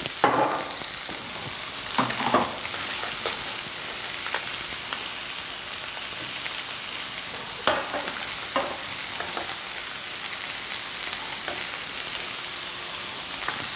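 Salmon and a shrimp-and-squid stir-fry sizzling steadily in hot oil in pans on the stove. A few clinks and scrapes of a metal utensil stirring in a pan come near the start and about halfway through.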